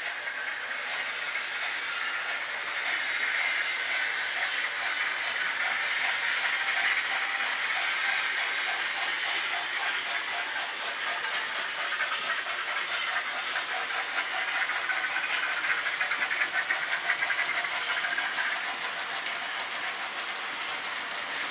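H0-scale model trains running on the layout: a steady whir of wheels and small motors with rapid, even clicking from the track.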